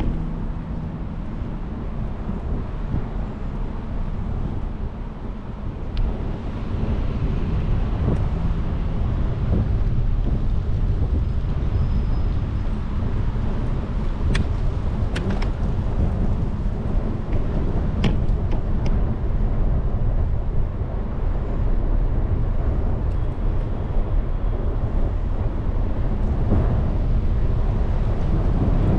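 Wind rumbling on the microphone and tyre and road noise from a moving bicycle, louder from about six seconds in, with a few sharp rattles or clicks.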